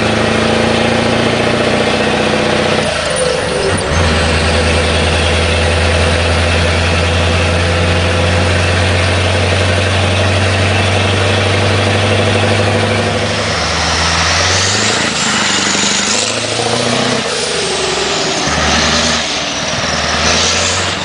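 Scania 143's V8 diesel engine running through an open exhaust: idling steadily for the first half, then revved up and let back down several times, with a high whistle rising and falling with each rev.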